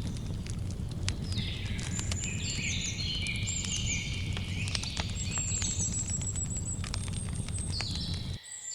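Campfire crackling with scattered sharp pops over a low steady rumble, while birds chirp and call in short, falling notes through most of it. The whole sound cuts out briefly near the end, then resumes.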